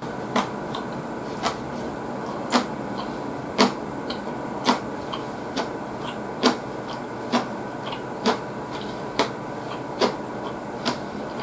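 A person chewing food close to the microphone: a sharp mouth click about once a second, slightly uneven, with fainter clicks in between, over a steady hiss.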